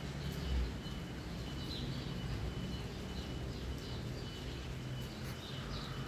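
Small birds chirping in short, repeated calls over a steady low rumble of background noise, with a thin high tone coming and going.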